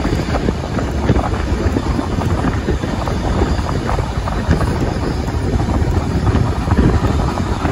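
Wind buffeting the microphone over the steady running noise of a moving train, heard from aboard.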